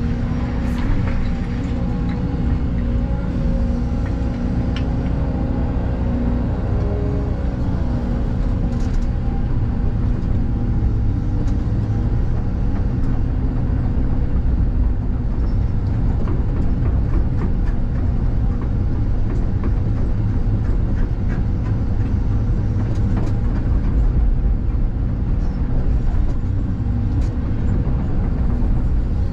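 Excavator's diesel engine running steadily under load, with a hydraulic whine in the first several seconds and scattered light knocks and clicks.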